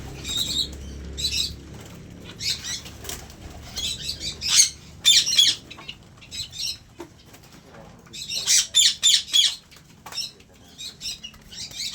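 Small aviary birds, such as cockatiels, Java sparrows, doves and lovebirds, flapping their wings and chirping in irregular flurries of short bursts. The flurries are busiest about halfway through and again later on.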